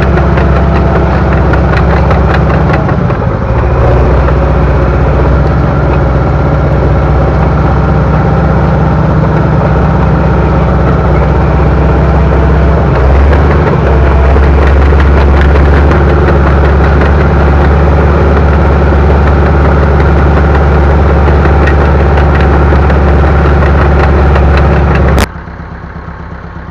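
Bulldozer's diesel engine running loud and steady, with brief dips in pitch about three seconds and thirteen seconds in. Near the end the sound cuts off suddenly to a much quieter engine.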